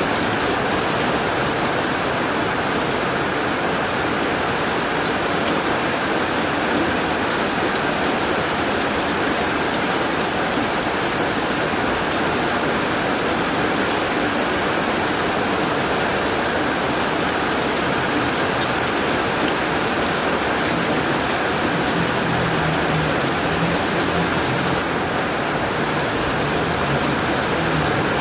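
Heavy rain falling steadily on a tin roof, a dense even patter with fine drop ticks.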